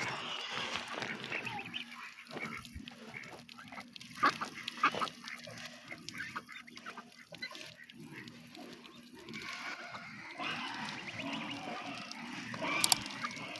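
A flock of farm poultry calling over and over, many short calls overlapping.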